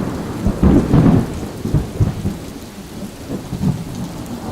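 A thunderclap with rain: a sudden loud crack and rumble that peaks about a second in, then keeps rolling more softly over steady rain.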